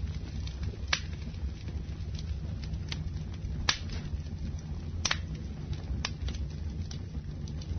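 Campfire burning with a steady low rumble of flames and sharp pops and crackles from the wood, a few louder snaps about a second in and between about three and a half and five seconds in.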